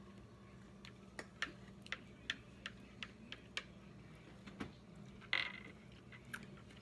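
A person chewing food close to the microphone: a run of short, sharp clicks and crunches, about two a second, with one louder, longer crunch about five seconds in.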